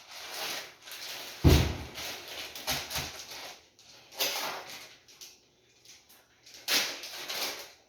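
Plastic bag of popcorn kernels rustling as it is handled, with a dull thump about one and a half seconds in.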